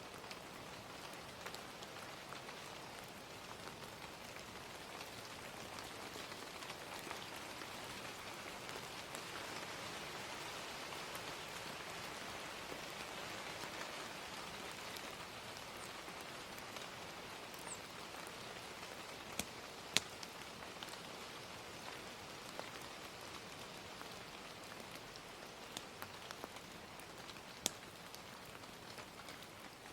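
Steady gentle rain with a fire crackling, a few sharp pops standing out about two-thirds in and again near the end.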